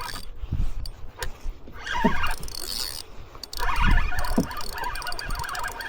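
Fishing reel working as a hooked fish is fought: a fast mechanical chattering and whirring, strongest about two seconds in and again in the second half, with low irregular thumps.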